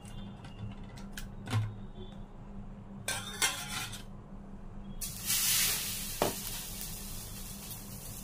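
A fork clinks and scrapes against a steel bowl as bread is dipped in beaten egg. About five seconds in, a sizzle starts as the egg-coated bread goes onto a hot oiled iron tawa, and it goes on more softly. A steady low hum runs underneath.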